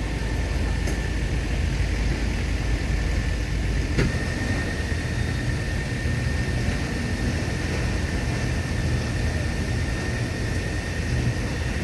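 Belarus tractor's diesel engine running steadily. A sharp click comes about four seconds in; after it a thin, steady high whine carries on and the deepest rumble eases.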